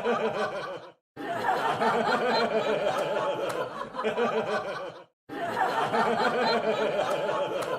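A crowd laughing together. The laughter comes in repeated takes of about four seconds that fade and break off into brief silences, about a second in and again about five seconds in.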